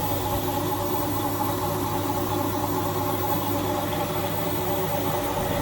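Indesit 1400-spin washing machine running, its drum motor giving a steady hum.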